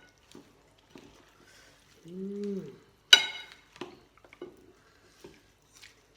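Eating sounds from a noodle bowl: a short hummed "mm" about two seconds in, then a sharp ringing clink of a utensil against the bowl about three seconds in, followed by a few light clicks and another clink near the end.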